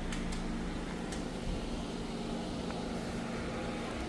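Steady low hum of a car engine idling, with a few faint light clicks near the start and about a second in.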